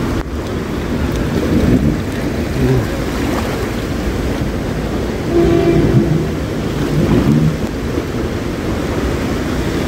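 Cars driving through deep floodwater, a steady rush of churned water with engine noise under it, and wind on the microphone. A brief steady tone sounds a little past halfway.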